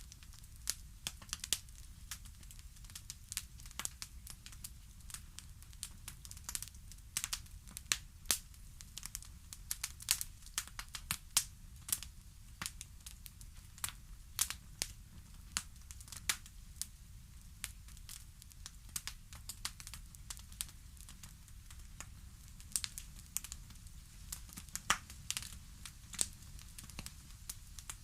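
Wood fire crackling: irregular sharp pops and snaps, several a second and of varying strength, over a steady low rumble.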